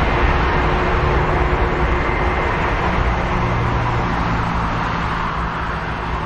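Jet airliner's engines roaring at takeoff power, slowly fading as the aircraft climbs away.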